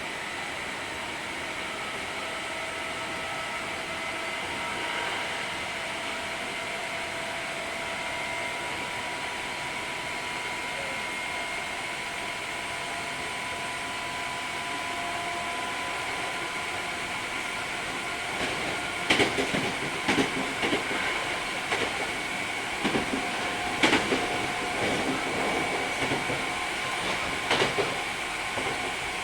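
Hankyu 3300 series electric train running, with a steady rumble and several steady whining tones from the running gear. From about two-thirds of the way in, the wheels clack sharply and irregularly over the track.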